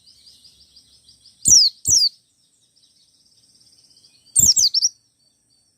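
Wild-caught white-eye (pleci ngalas) calling: sharp, high whistled notes that slide downward, two about a second and a half in and a quick run of several near the end. A soft, high twittering trill fills the gaps between them.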